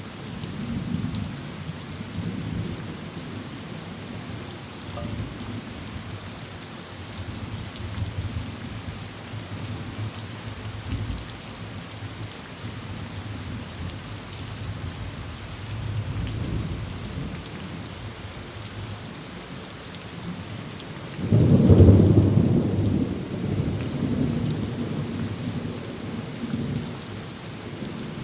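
Heavy rain pattering steadily on a tin roof, with thunder rumbling low throughout and one loud thunderclap rolling in about three-quarters of the way through, then fading slowly.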